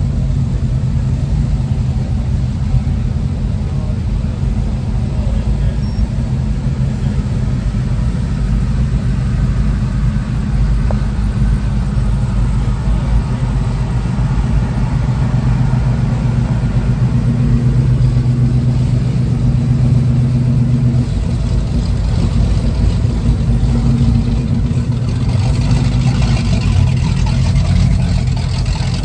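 A vehicle engine running steadily at idle, a low even drone that stays much the same throughout.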